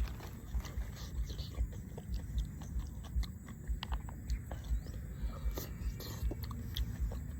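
A person chewing food close to the microphone in a steady rhythm of low thumps, a few a second, with sharp crunches and wet mouth clicks.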